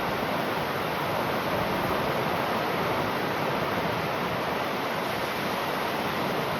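Ocean surf: a steady, even rush of waves, with no single breaker standing out.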